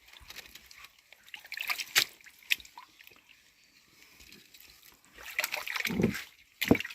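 Shallow pond water splashing and sloshing as hands search through it, in short irregular splashes, a couple of sharp ones about two seconds in and a busier run near the end.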